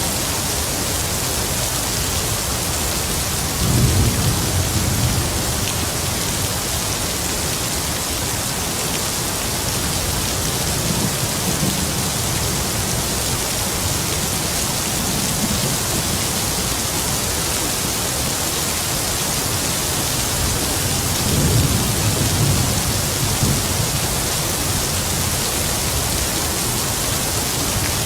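Heavy rain falling steadily, with distant thunder rumbling low several times, the strongest rolls about four seconds in and again around two thirds of the way through.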